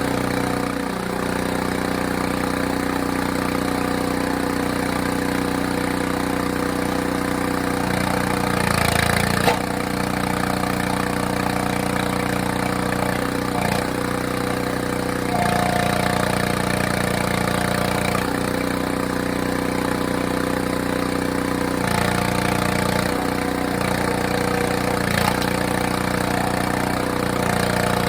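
Small gas engine of a hydraulic log splitter running steadily, its note shifting several times as the splitter takes and sheds load while splitting maple rounds. A short, sharp crack about a third of the way in.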